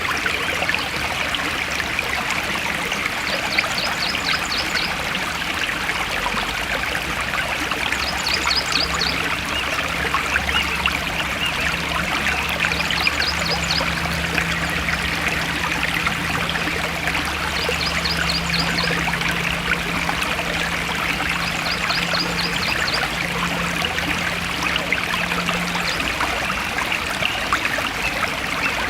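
Forest stream flowing steadily, a continuous splashing rush of water. A short, high, rapid trill repeats about every four to five seconds above it.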